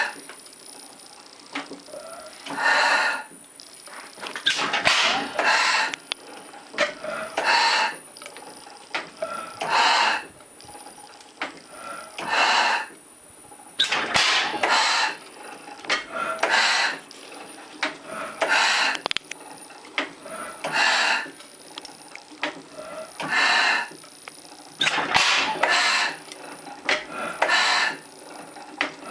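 Antique Otto slide-valve four-stroke gas engine running, with a noisy burst of about half a second roughly every two seconds at uneven spacing.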